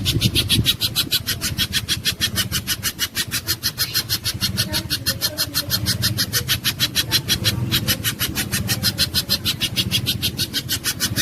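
Spiderhunter (pijantung gunung) calling in a fast, even run of sharp high chips, about eight a second, with no pauses. A low steady hum runs underneath.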